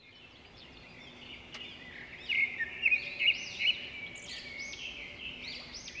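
Small birds chirping: a run of short, high, arching chirps, faint at first and louder from about two seconds in.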